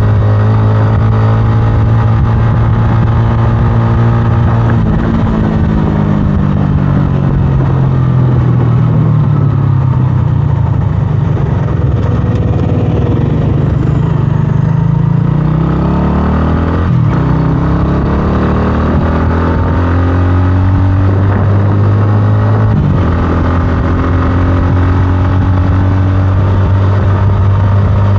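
125cc scrambler motorcycle engine running while riding, a steady drone with its pitch rising and falling with the throttle. It changes pitch abruptly about two-thirds of the way in and again near the end, as a gear is shifted.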